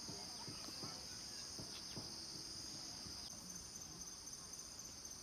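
Insect chorus: a steady, high-pitched trill that carries through, with faint scattered knocks underneath.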